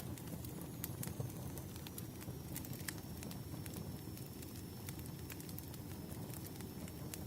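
Wood fire crackling: scattered sharp pops and snaps over a low steady rumble of burning logs.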